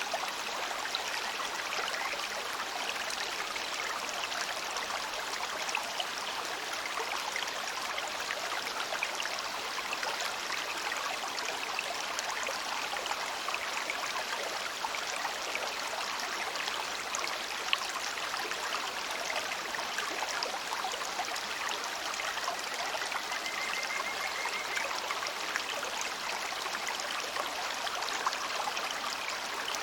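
Shallow river water babbling over stones: a steady rush with small splashes and gurgles running through it.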